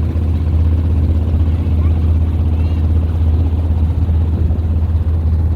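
A boat's engine running steadily at an even speed, a loud, constant low hum with a rumbling clatter over it.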